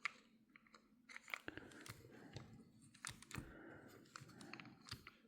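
Faint, irregular small clicks and light scraping of an Abumatic 150 fishing reel's small metal parts being handled and fitted by hand.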